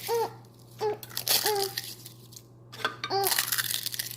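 A few short, wordless child vocal sounds, each a brief rising-and-falling syllable, with bursts of crackling between them from eggshells being crushed by hand.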